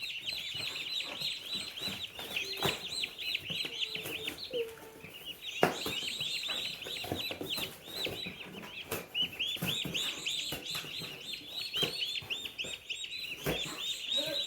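Many day-old chicks and turkey poults peeping together, a dense chorus of short high chirps that thins briefly about four seconds in, with a few scattered knocks of handling.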